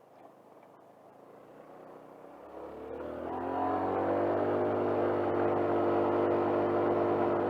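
Motor scooter engine revving up from near idle about two and a half seconds in, then running at steady, high revs as the scooter pulls along.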